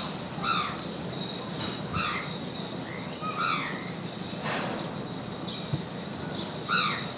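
A bird calling again and again in short arched calls, one every second or two, over a faint steady high-pitched tone.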